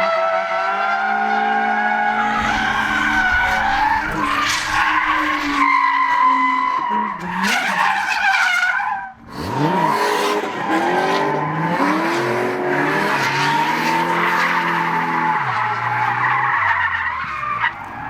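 A drift car being driven hard: the engine revs rise and fall as the tyres squeal and skid. There is a short lift off the throttle about nine seconds in.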